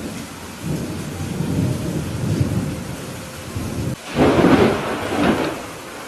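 Thunder over steady rain. A low rumble builds about a second in, then a louder, sharper thunderclap breaks about four seconds in and fades.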